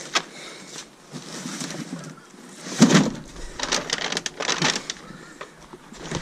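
Rustling and knocking of bags and discarded electronics being handled in a dumpster, with a louder thump about three seconds in.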